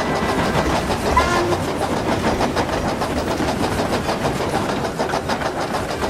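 Train sound effect of a steam engine running with a goods train: a steady, fast rhythmic clatter of wheels on rail joints, with a brief high tone about a second in.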